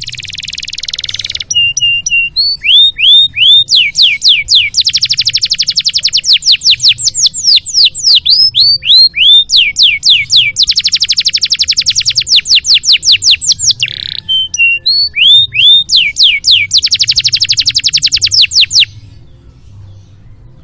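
Canary singing a long song: series of repeated down-slurred whistled notes that break three times into very fast rattling trills, stopping shortly before the end.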